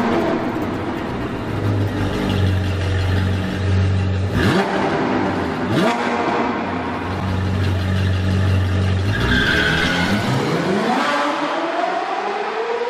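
Sports car engine revving, with two quick blips up in pitch about four and six seconds in and a long climbing rev over the last few seconds.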